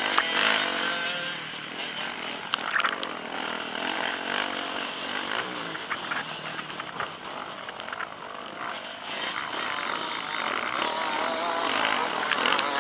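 Motocross bike engine revving up and down as the rider works the throttle through the gears, heard from a helmet-mounted camera, with a few sharp knocks about two and a half seconds in.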